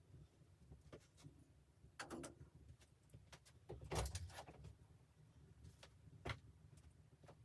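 Faint scattered clicks and knocks, with a short rustling cluster about two seconds in and the loudest knocks about four seconds in.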